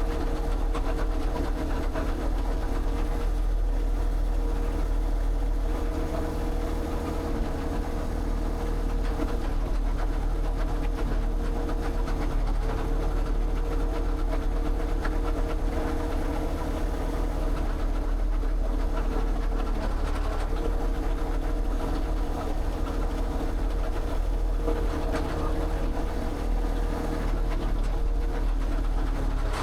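A steady engine or motor running at an even speed, with a constant hum and no breaks.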